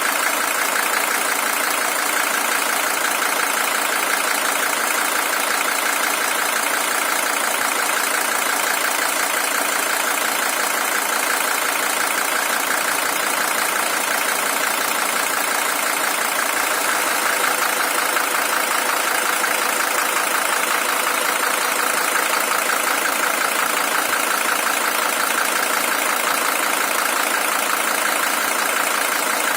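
Mercedes-Benz OM617 five-cylinder turbodiesel idling steadily, with a constant diesel clatter; the engine has 620,000 km on it and is the original.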